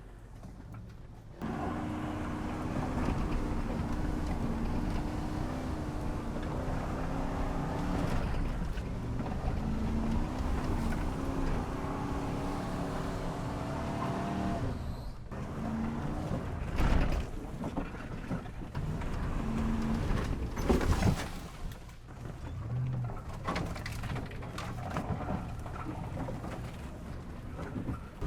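Truck engine running and revving up and down as the truck pushes through the woods, with a few sharp knocks, the loudest about 17 and 21 seconds in.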